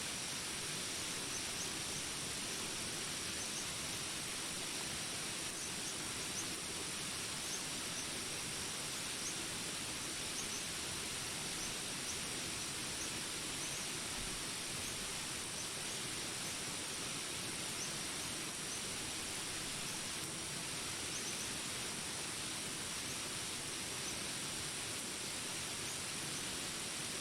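Jungle ambience: steady rain hiss with a high, steady drone over it and scattered short, high chirps from jungle creatures.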